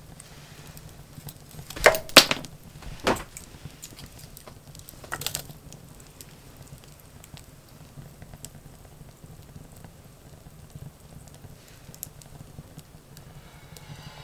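Wood fire crackling: a cluster of loud pops about two seconds in, another around three seconds and one near five seconds, then only sparse faint crackles.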